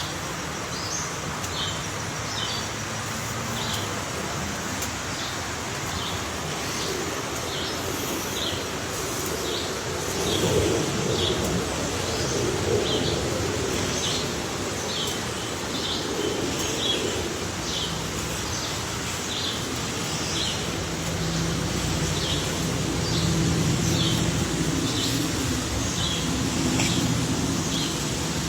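A bird calling with short, high chirps repeated about once a second, over a steady low background rumble.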